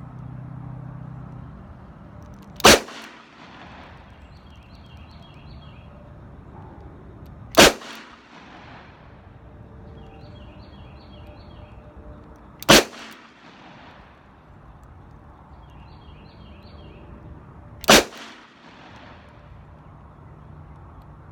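Four shots from a Smith & Wesson 686 Plus .357 Magnum revolver fired double action with 110-grain Winchester rounds, evenly spaced about five seconds apart. Each is a sharp report with a short echo.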